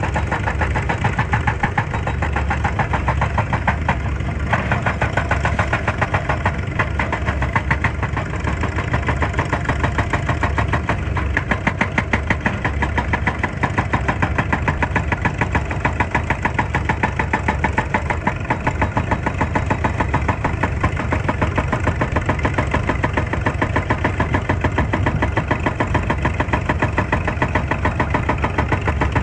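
Excavator diesel engine running steadily with a rapid, even pulse, the tone shifting slightly about four seconds in.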